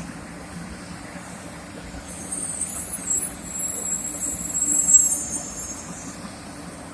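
Series 500 Shinkansen (Hello Kitty livery) pulling into a station as it slows, with a steady low rumble. A loud, high-pitched squeal of several tones sets in about two seconds in and fades about a second before the end.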